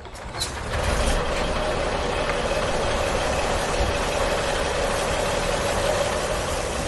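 Toy tanker truck driven along by hand, giving a steady mechanical whirr with a constant hum that starts about half a second in.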